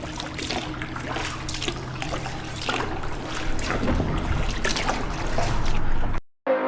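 Kayak paddle strokes: water trickling and dripping off the blades with irregular small splashes. Near the end it cuts off abruptly and music begins.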